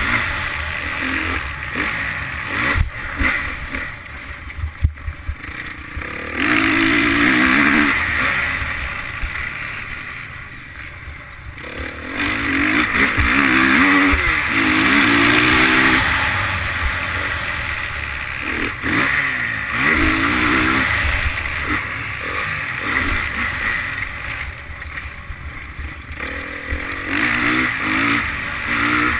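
Motocross bike engine heard from on board, with the throttle opened and shut again and again so its pitch climbs and drops through the gears. The engine drops to a lull twice, about five and eleven seconds in, with sharp knocks and clatter during the first lull.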